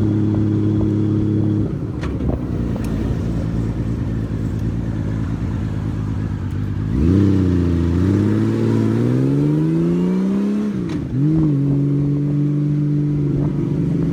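Honda Valkyrie flat-six motorcycle engine under way. It holds a steady note, drops off the throttle about a second and a half in and rolls on low, then pulls away about seven seconds in with revs rising. The revs dip sharply at a gear change near eleven seconds, then it settles into a steady cruise.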